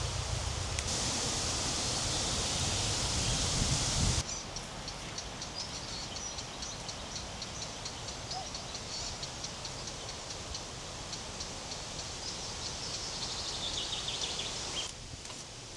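A steady rushing noise cuts off abruptly about four seconds in and gives way to outdoor ambience with many small birds chirping in quick, high notes.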